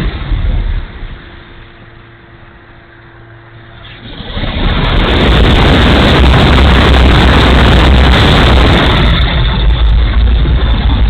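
Strong wind buffeting the microphone in gusts. It eases about a second in, leaving a faint steady hum for a few seconds, then gusts back loud.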